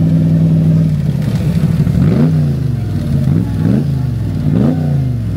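A car engine held at a steady raised idle, then blipped several times from about two seconds in, each rev climbing quickly and dropping straight back.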